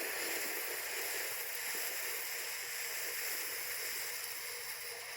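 TNT Fireworks Diamond Cutter, a small consumer firework fountain, burning with a steady hiss of spraying sparks.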